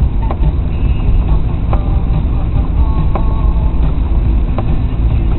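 Car in motion heard from inside the cabin through a dashcam microphone: a steady low rumble of engine and tyres on a wet road, with a few faint clicks about a second and a half apart.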